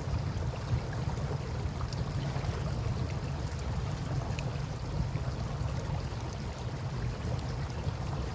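Campfire crackling, with scattered small pops, over the steady wash of river water and a low rumble.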